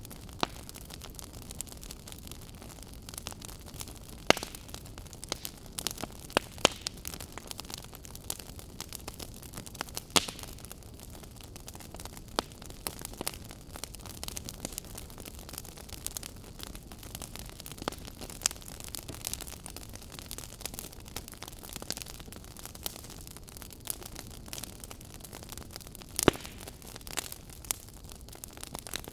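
Burning firewood crackling: a steady soft hiss with frequent sharp pops and snaps, the loudest about four seconds in, about ten seconds in and near the end.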